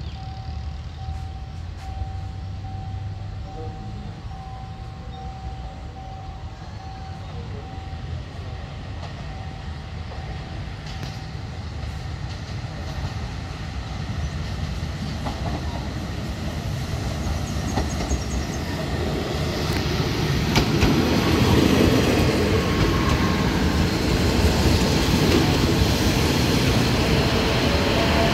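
Diesel railcar train approaching and pulling into the station, its rumble growing steadily louder and loudest as the carriages run past the platform. For the first several seconds a faint pulsing tone is heard as well.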